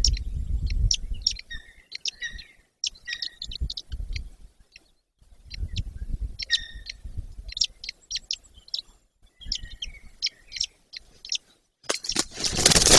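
Birds chirping: many short, high chirps in quick irregular runs, over intermittent low rumbling. About twelve seconds in, a loud rushing noise swamps everything.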